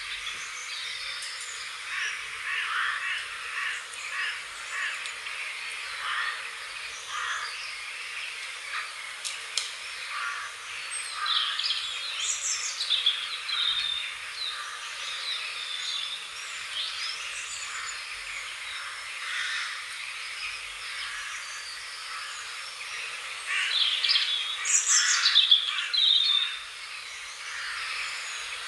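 Several songbirds chirping and singing over a steady background hiss, with busier, louder song about a third of the way in and loudest near the end.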